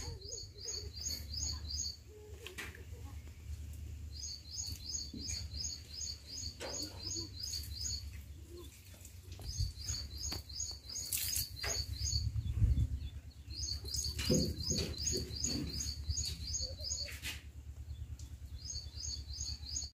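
A bird calling in runs of quick, evenly spaced high chirps, about four a second, five runs of one to four seconds each with pauses between. Under it is a low rumble, and a few knocks come about two-thirds of the way through.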